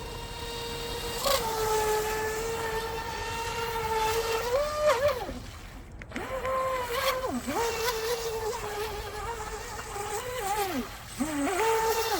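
Eachine EBT04 RC boat's brushless motor whining at speed on a 3S battery, the pitch mostly steady with a brief rise about five seconds in. The whine dies away twice, around six seconds and near eleven, and picks up again each time as the throttle comes back on.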